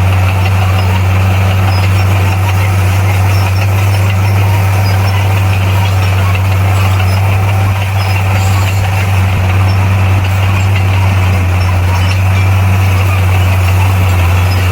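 A bulldozer's heavy diesel engine running steadily with a deep, even hum and no change in speed.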